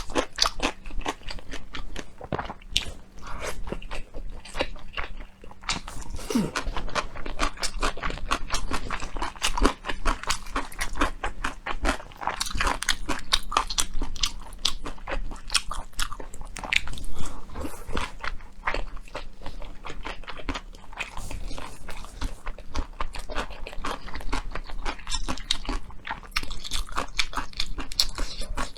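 Close-miked chewing and biting of a rolled thin pancake wrap filled with fire noodles and pickled yellow radish, with many small crisp crunches and wet mouth clicks.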